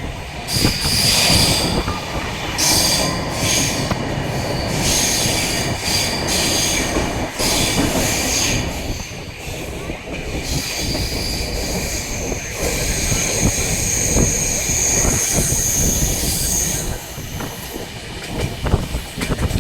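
Train running on rails with a steady rumble, and its wheels squealing repeatedly on the curves of a mountain ghat line. There are several short high squeals in the first half, then one long squeal held for about four seconds past the middle.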